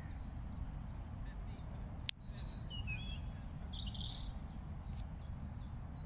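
Small birds chirping: a run of short, high chirps about twice a second, with a brief burst of busier calls about three seconds in, over a steady low rumble of outdoor background noise. A single sharp click about two seconds in.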